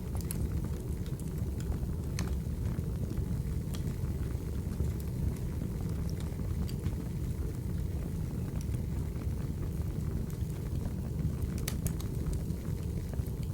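Wood fire burning: a steady low rumble with scattered sharp crackles and pops, a few of them close together near the end.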